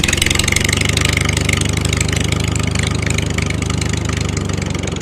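Small engine of a DIY mini tractor running steadily at a fast, even beat, having just started.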